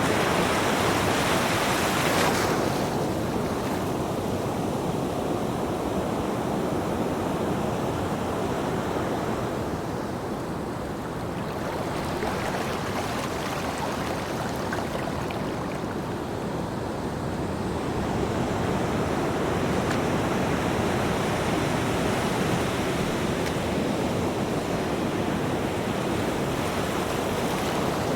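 Ocean surf: a continuous rush of breaking waves that slowly ebbs and swells again. The high hiss thins suddenly about two seconds in.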